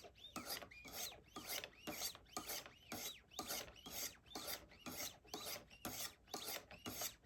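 800-grit stone on a Wicked Edge Go guided sharpener scraping along the steel edge of a Benchmade Shootout knife, at about two strokes a second. Each stroke is a rasp with a faint squeal that rises and falls in pitch as the stone sweeps along the curved edge. This is the fine-grit honing stage, taking the scratches left by the coarser grits out of the CPM CruWear edge.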